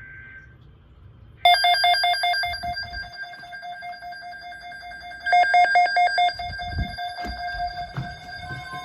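A weather alert radio sounding its alarm: a loud, rapidly pulsing electronic ringing that starts about 1.5 s in and swells again past the middle, set off by the broadcast's alert code for a severe thunderstorm watch. The end of the code's data tones is heard at the very start, and the broadcast's steady warning tone comes in faintly near the end.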